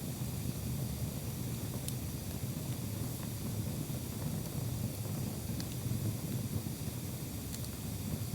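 Wood campfire burning: a steady low rumble with a few faint crackles scattered through it.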